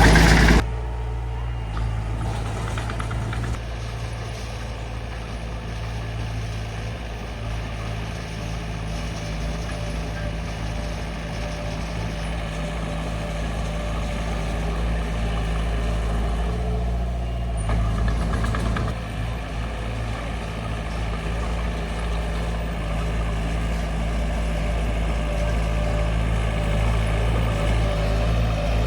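Bulldozer's diesel engine running steadily, a continuous low drone that shifts briefly about eighteen seconds in.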